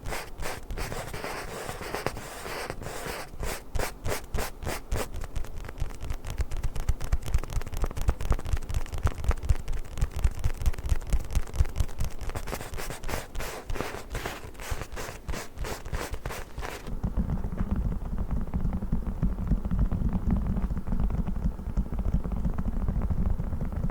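Fast scratching and rubbing on a book, several strokes a second. About 17 seconds in it changes suddenly to a duller, deep rubbing with the hiss gone.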